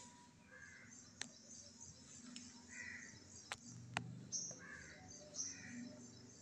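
Faint bird calls: short calls repeating every second or so, with higher chirps among them, and three sharp clicks or taps about a second in and around three and a half and four seconds in.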